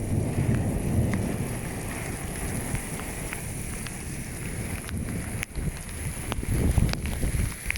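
Rain falling in a steady hiss, with wind rumbling on the microphone and a few scattered ticks.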